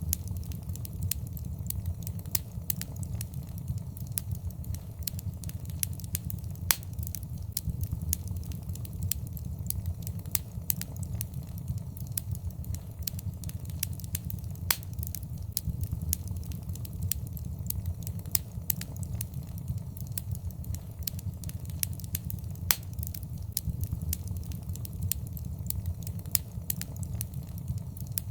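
Fire crackling in a fireplace: a steady low rumble of the flames under dense, sharp crackles and pops, with a few louder pops standing out.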